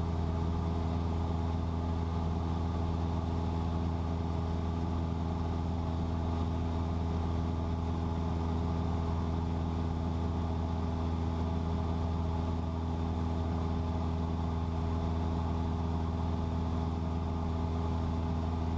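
Cessna 172's piston engine and propeller running steadily in level cruise, heard inside the cabin as a constant low drone with an even hum of overtones.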